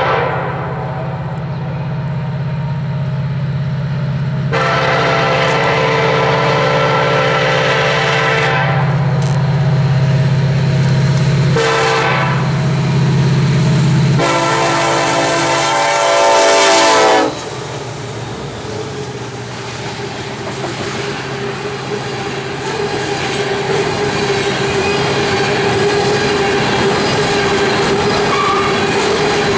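EMD diesel locomotive passing with a steady low engine drone while its air horn sounds the grade-crossing pattern: a long blast, a short one, then a final long blast, the loudest, which ends about 17 seconds in. After that the freight cars roll by with clickety-clack and a steady whine.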